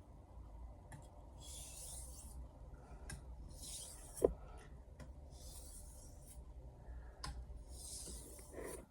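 A 210mm Misono Japanese knife blade being drawn across a wet whetstone: four slow, hissing strokes about two seconds apart, with a short knock about halfway through.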